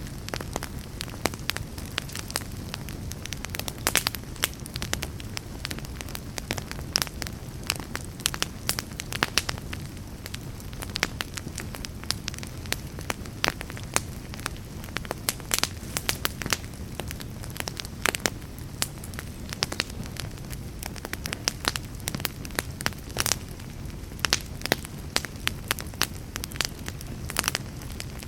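Wood fire burning in a fireplace: a steady low rumble of flames with frequent sharp, irregular crackles and pops throughout.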